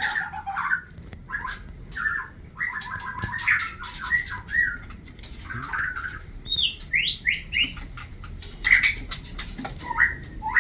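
White-rumped shamas calling in a breeding cage: a busy run of short, harsh chirps, with several quick rising notes and higher, louder calls about seven to nine seconds in.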